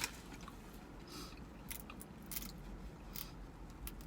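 A person eating homemade soup close to the microphone: quiet chewing and mouth sounds, with a few short sharp clicks scattered through.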